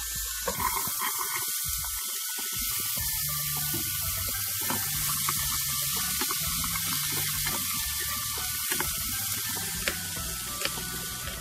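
Diced onion and potato sizzling in hot oil in a pot as they are stirred with a wooden spatula, a steady hiss with a few light ticks of the spatula near the end.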